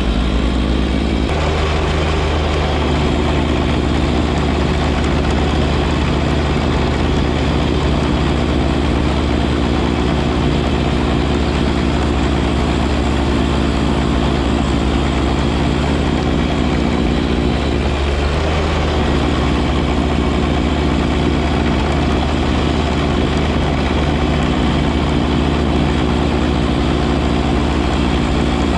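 John Deere 1025R compact tractor's three-cylinder diesel engine running steadily, with a slight change in its note about a second in.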